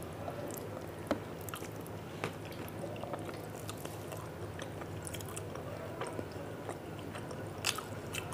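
A person chewing food close to the microphone, with wet mouth sounds and sharp clicks about a second in, at about two seconds and twice near the end, over a steady low hum.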